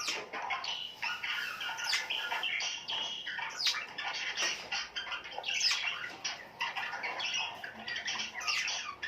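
A flock of small birds chirping and chattering together, many calls overlapping without a break, with now and then a sharp quick squawk.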